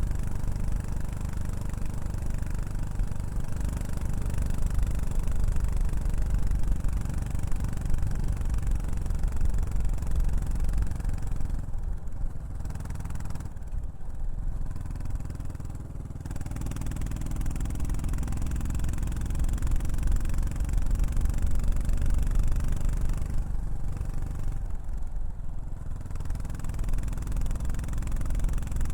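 Exhaust note of a Yamaha SR400's single-cylinder four-stroke engine through a Prunus aftermarket muffler, running under way. The note rises and falls with the throttle and eases off twice, around the middle and again later.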